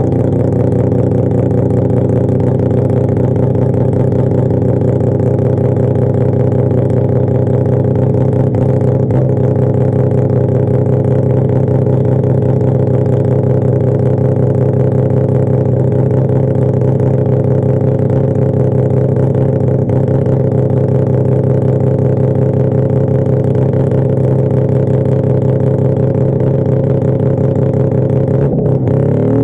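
Mazda R100 drag car's rotary engine running loud and steady at a held engine speed through a big trumpet exhaust, its pitch shifting as the revs change just before the end.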